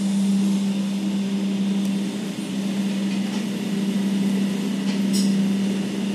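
Inside an S-Bahn train carriage: a steady low hum from the train's equipment over a soft rushing noise, with a faint brief click about five seconds in.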